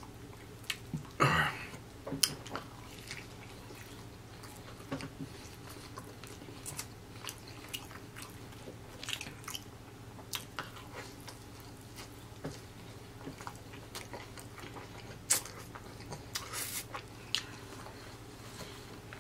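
Close-up eating sounds of crispy fried chicken: biting and chewing with wet mouth clicks and scattered crunches of the breading. The crunches are louder about a second in and again near the end.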